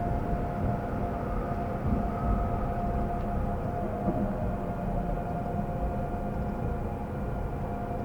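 Seoul subway train running, heard from inside the carriage: a steady low rumble of wheels on the track with a steady electric whine over it.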